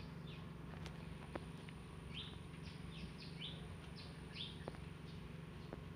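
Small bird chirping faintly, a run of short falling chirps, busiest in the middle, over a steady low hum. A few faint clicks are heard now and then.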